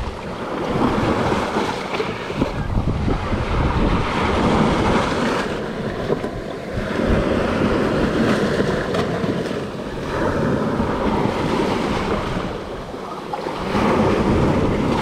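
Small sea waves washing onto the shore, swelling and easing every few seconds, with wind buffeting the microphone.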